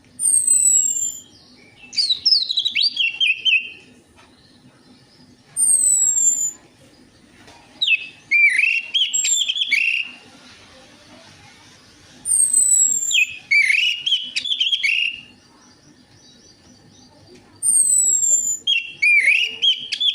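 Orange-headed thrush singing: four song phrases about every five to six seconds, each opening with a high falling whistle and running into a quick warbled burst of notes.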